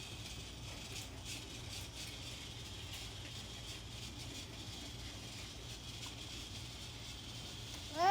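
Battery-powered Thomas & Friends toy train running along its track: a steady motor whine with faint light rattling clicks.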